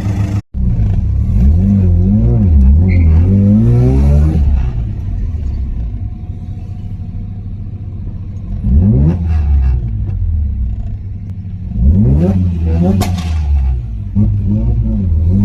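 Mazda RX-7 FD's twin-rotor rotary engine being driven and revved through the gears, its pitch climbing and falling several times, with quick rising sweeps and a brief sharp crackle near the end.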